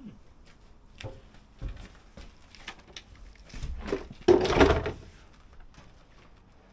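Scattered knocks and clunks, with a louder scraping clatter lasting under a second about four seconds in.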